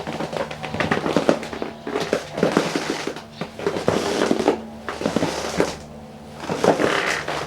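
Folding camp cot creaking and clicking as weight shifts on it: a dense run of irregular cracks, ticks and rustles from the frame and fabric. This is the noise the cot makes before it is quietened.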